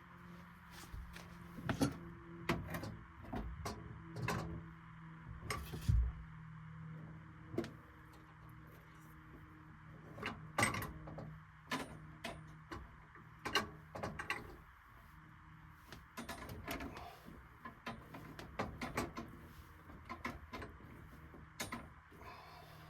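Irregular clicks, taps and knocks of tools and parts being handled during hand work on the furnace, over a steady low hum.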